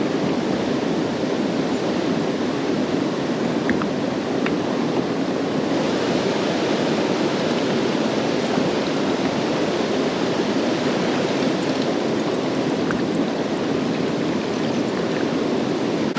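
Steady rushing of creek water, an even hiss that holds the same level throughout.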